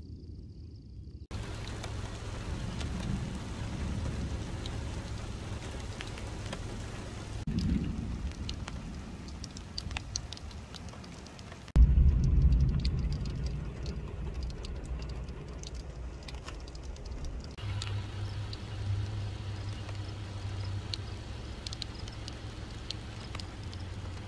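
Steady rain falling on puddles and wet grass, with many small drop ticks. About halfway through, a sudden low rumble sets in and fades away over a few seconds.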